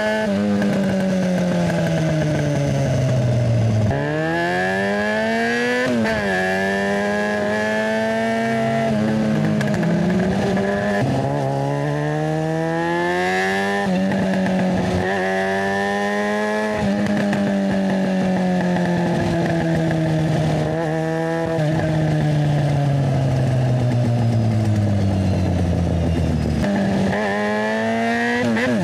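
Yamaha FZ6's inline-four engine through a GPR Ghost aftermarket exhaust while riding: the revs climb and drop sharply again and again as it shifts up through the gears, with long slow falls in pitch as it rolls off the throttle.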